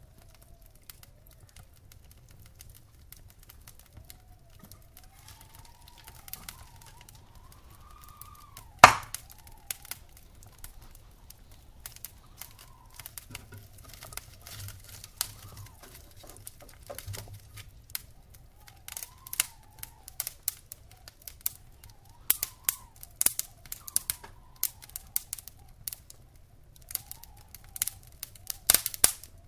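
Wood fire crackling in a fireplace: irregular pops and snaps over a low steady rumble, with one loud sharp pop about nine seconds in and a quicker run of crackles near the end. A faint whistle rises and falls underneath.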